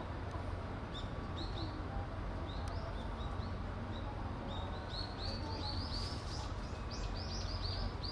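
A small bird chirping: short high arched notes, scattered at first, then quick runs of chirps in the second half, over a steady low background rumble.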